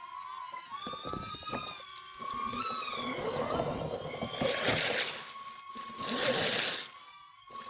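Electric RC truck driving through dry fall leaves: a steady, wavering small-motor whine, with rough rustling that builds after the first second and two loud bursts of crunching leaves in the second half.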